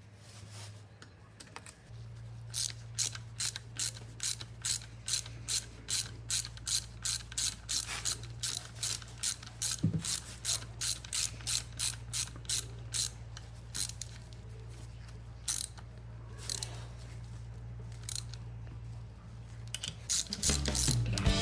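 Ratchet wrench clicking as bolts on the motorcycle engine's crankcase are tightened: an even run of quick clicks, two to three a second, that thins to a few scattered clicks near the end.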